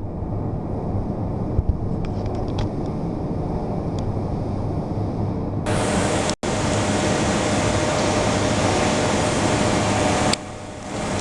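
CNC horizontal boring machine running, a steady mechanical hum. About halfway through it gets louder with a hiss, with a brief cut-out just after.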